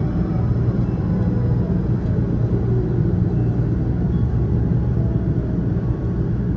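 Light-rail tram running between stops, heard from inside the car: a steady low rumble of the running gear and wheels on the rails.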